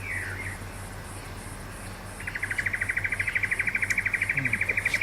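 An insect, cricket- or cicada-like, trilling in a rapid even pulse at one high pitch. It starts about two seconds in and is the loudest sound. A brief falling chirp comes at the very start.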